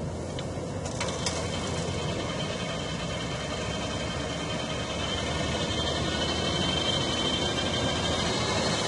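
Fendt Vario tractor's six-cylinder Deutz diesel running steadily under load while pulling a harrow through ploughed soil. A thin high whine grows in from about halfway as the engine note rises slightly.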